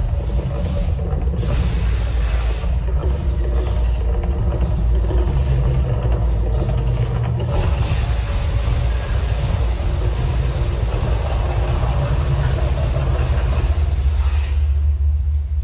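Mirage volcano show's eruption effects: a loud, deep rumble under a noisy rush, with a few sharp hits in the first half, dying away shortly before the end.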